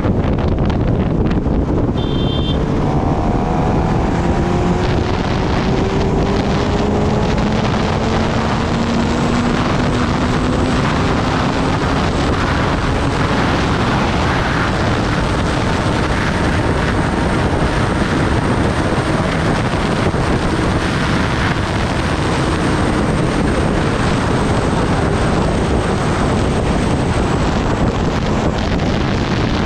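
Wind rushing over the microphone on a moving Kawasaki Ninja ZX-10R, with the bike's inline-four engine heard under it, its pitch slowly rising as it accelerates from about two seconds in.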